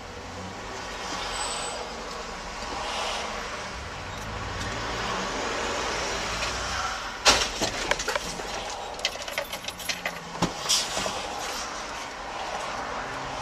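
Road vehicle noise, steady at first. About seven seconds in there is a sharp knock, followed by a string of irregular clicks and knocks over the next few seconds.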